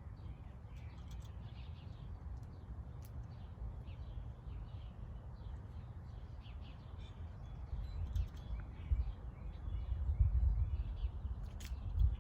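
Small birds chirping over and over, many short calls overlapping. Under them a low rumble grows louder in gusts during the second half.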